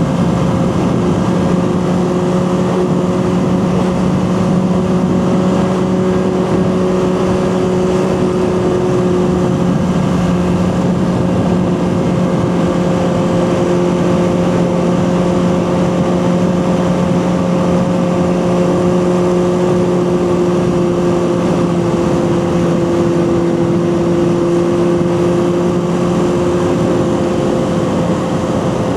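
Honda CB400F Super Sport's air-cooled inline-four engine running under way at fairly steady revs, an even hum with only slight drifts in pitch.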